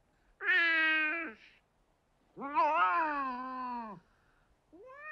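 A cat meowing: three long, drawn-out meows. The second wavers up and down in pitch before sliding down at its end, and the third starts near the end.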